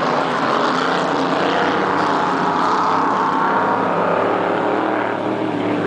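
Racing boat engine running loudly and steadily, its pitch rising a little around the middle and easing off near the end.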